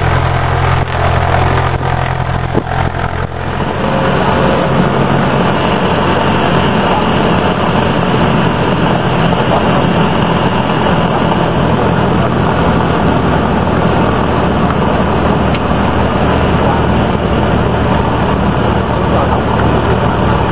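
Cessna 172's single piston engine and propeller droning steadily as heard inside the cabin, a low hum under a constant rush of noise. The tone of the hum shifts about three and a half seconds in, then holds steady.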